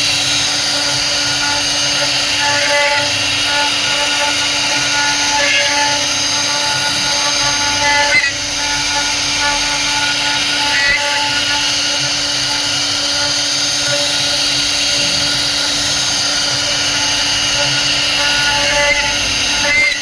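CNC router spindle cutting wood: a steady, high-pitched machine whine made of several held tones, with small changes every few seconds as the cutter moves through the carving and a brief drop in loudness about eight seconds in.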